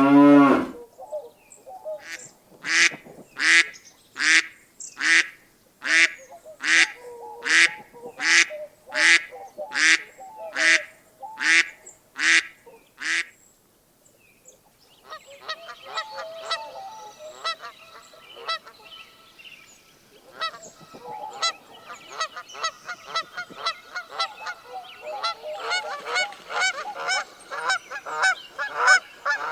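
Geese honking: one goose calls about fifteen times in a steady run, roughly one honk every two-thirds of a second, then after a short lull a flock takes up fast, overlapping calls that grow busier near the end. The tail of a cow's moo sounds at the very start.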